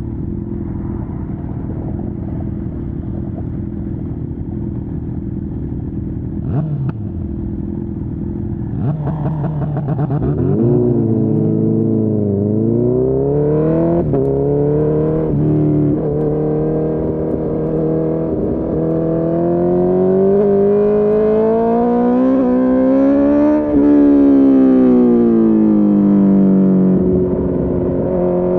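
Honda CB1000R inline-four with a full Akrapovic exhaust, running steadily at low revs for the first third. It then revs up again and again, the pitch climbing with short dips that sound like gear changes. About three-quarters of the way in it peaks, drops away as the bike slows, and settles to a steady low note near the end.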